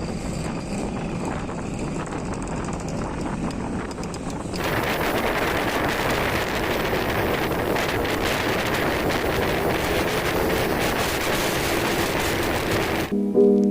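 Wind rushing over the microphone with the noise of a moving motorcycle. About four and a half seconds in, the sound changes abruptly to a louder, brighter rushing noise, and piano music starts near the end.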